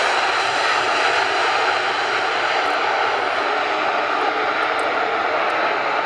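Airbus A350-900's Rolls-Royce Trent XWB turbofans running in reverse thrust on the landing roll, a loud, steady jet roar.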